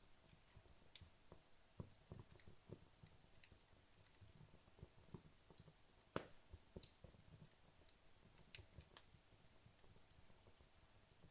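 Wood logs burning in a fireplace, crackling faintly: scattered small pops and ticks, with one sharper snap about six seconds in.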